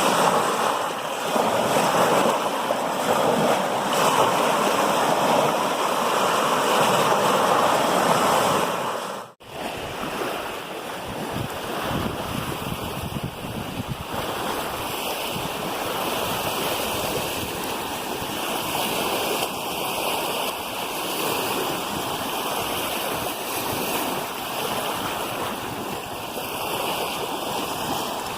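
Waves washing onto the Lake Superior shore, with wind on the microphone. The sound cuts out briefly about nine seconds in and resumes a little quieter and steadier.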